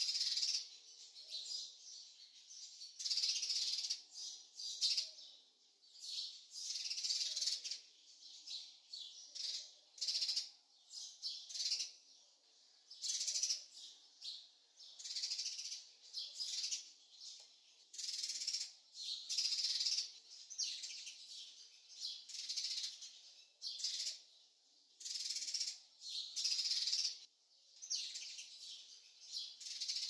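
Birds chirping in short, high, repeated phrases, a burst every second or two.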